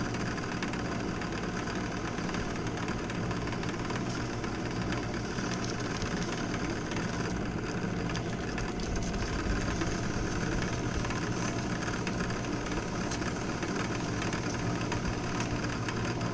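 Drill press running steadily while sandpaper is held against the electric-motor shaft spinning in its chuck, sanding and smoothing the shaft: a constant motor hum under a rough sanding hiss.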